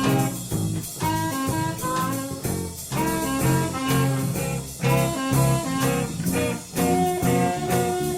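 A band playing an upbeat swing-style tune with guitar and a steady bass line.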